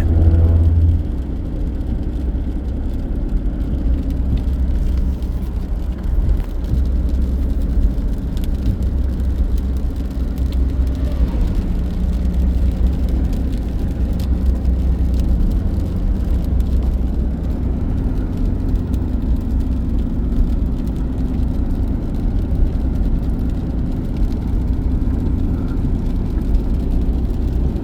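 Steady low road and engine drone heard from inside a moving car's cabin.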